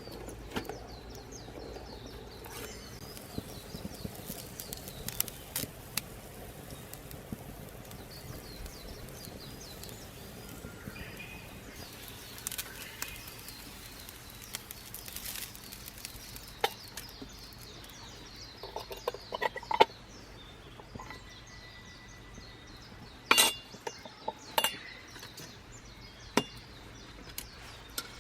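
Cookware clinking: scattered light metallic clinks and taps over a faint steady background, with a few sharper, louder ones in the last third.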